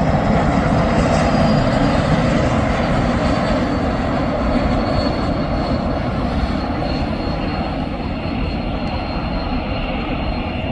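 Airliner's jet engines passing by: a loud rush of engine noise with a thin high whine that falls slowly in pitch, the whole sound easing off a little toward the end.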